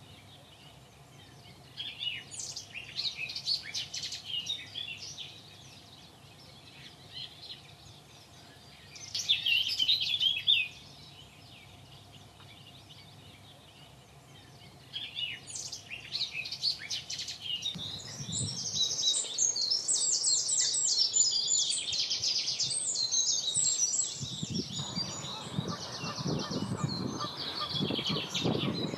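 Birds singing and calling: short bursts of high chirping song, then denser song from several birds through the second half, with lower, rougher calls joining near the end.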